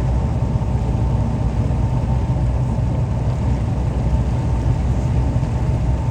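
Boat engine running steadily: a loud, even low drone with a faint steady hum above it.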